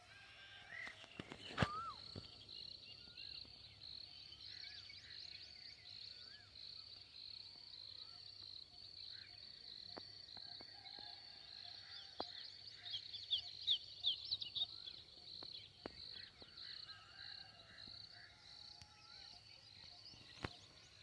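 Small birds chirping in a sunflower and millet field, with short gliding calls over a steady, evenly pulsing high trill, and a burst of sharp high chirps around the middle. A single sharp click comes about a second and a half in.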